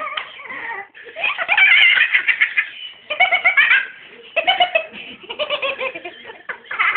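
A baby giggling and laughing in several high-pitched bursts of quick, repeated laugh pulses.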